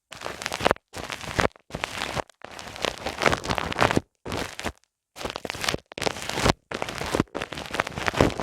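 Ear-massage sounds on a binaural microphone: hands rubbing the microphone's ears, giving a crackly, crinkling friction noise. It comes in short strokes of under a second, about nine of them, each cut off sharply into silence.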